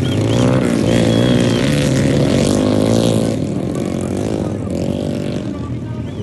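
Motocross dirt bike engines revving on the track, their pitch rising and falling as the riders work the throttle. The engines are loudest over the first three seconds, then ease off.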